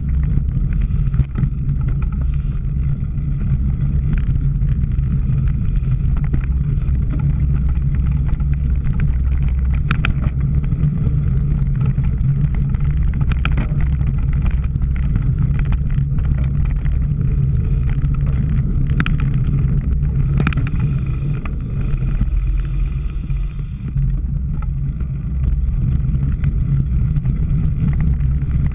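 Steady low wind rumble buffeting a camera microphone while riding a cyclocross bike, with a few sharp clicks and rattles.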